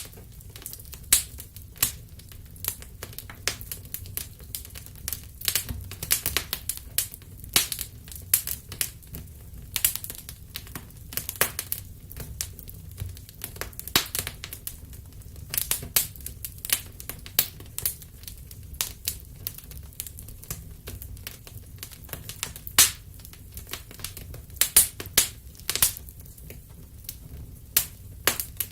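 Wood fire crackling in a fireplace: irregular sharp pops and snaps, several a second with louder ones scattered throughout, over a steady low rumble of the flames.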